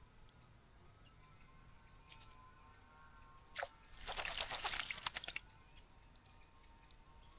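A bird bathing in a bird bath: a single sharp tap, then about a second and a half of splashing water about four seconds in.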